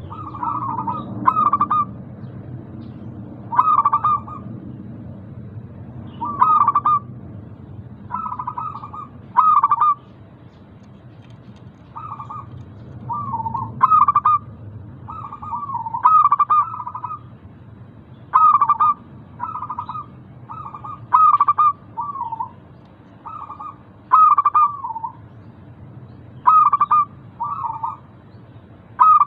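Local zebra doves (perkutut) cooing: short clusters of a few quick notes, repeated every second or two. A steady low hum sits underneath, strongest near the start.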